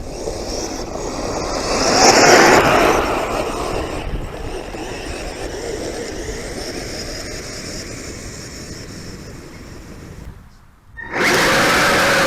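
Kyosho Blizzard RC snowcats running on snow: a steady whirring of electric motors and tracks that swells as one comes close, about two seconds in, then fades. Near the end the sound drops out briefly and comes back suddenly as a louder, steady motor whine.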